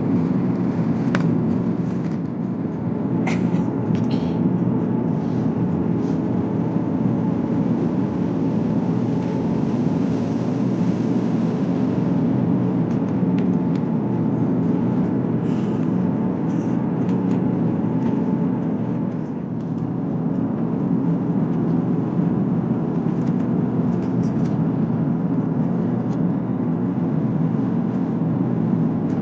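Steady cabin noise of an Airbus A350-900 airliner in flight, the even rumble of its Rolls-Royce Trent XWB engines and the airflow. A few faint clicks come in the first few seconds.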